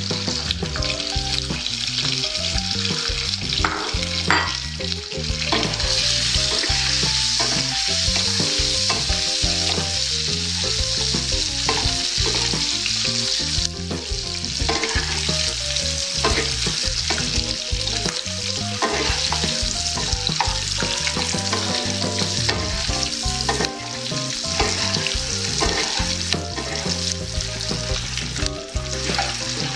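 Peeled hard-boiled eggs frying in hot mustard oil with turmeric in a wok, giving a steady sizzle. A wooden spatula stirs and turns them in the oil.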